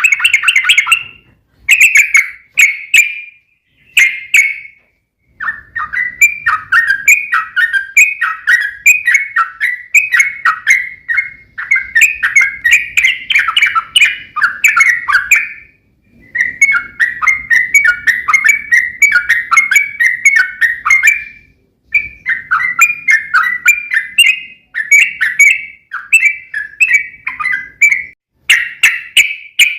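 Yellow-vented bulbul (trucuk) singing: a few short bubbly phrases, then long rapid warbling runs, the 'ropel panjang' song used as a lure to make other trucuk birds sing back.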